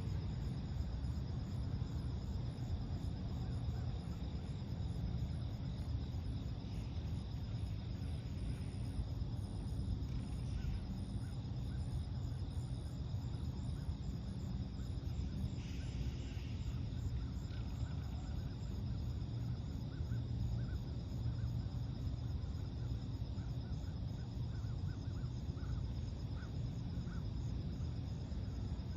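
Lakeside ambience before sunrise: a steady low rumble under constant high insect trilling, with a brief bird call about halfway through and a series of short chirps in the second half.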